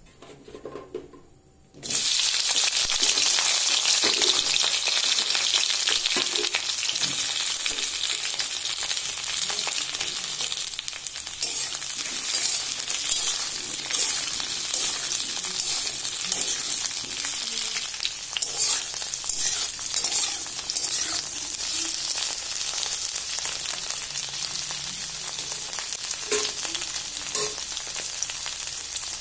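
Cut okra frying in hot oil in a metal wok: a loud sizzle starts suddenly about two seconds in as the okra goes into the oil. It keeps sizzling steadily, easing off slightly, while the pieces are stirred.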